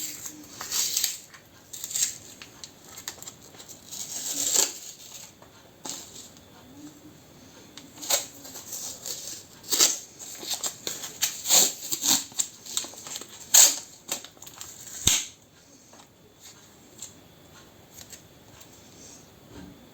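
Irregular scraping strokes of a small brush working ash and dust out of the inside of a pellet stove during cleaning. The strokes fade to faint scraping for the last few seconds.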